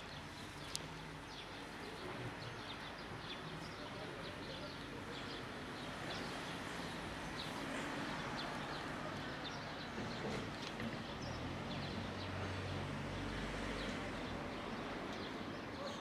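Outdoor ambience: many short bird chirps over a steady background hiss, with a faint low hum and one sharp click about a second in.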